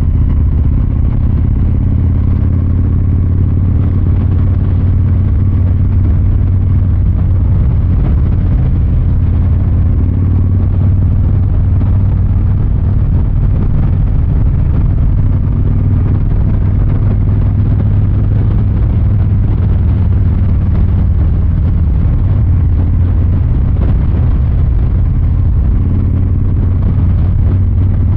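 Exhaust of a 2023 Harley-Davidson Fat Boy 114's Milwaukee-Eight 114 V-twin, running steadily without hard revving, heard from the rider's seat.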